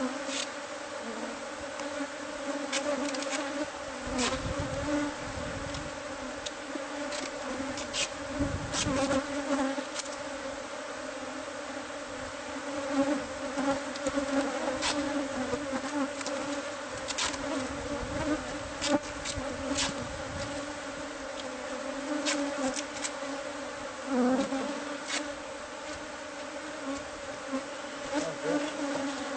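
A swarm of honeybees buzzing in a steady, dense hum as their hive in a house wall is opened up for removal, with scattered sharp clicks and a few dull low thumps.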